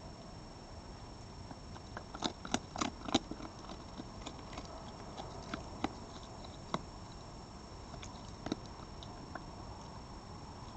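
An animal eating at a feeding spot, crunching food: a quick run of sharp crunches about two to three seconds in, then scattered single bites.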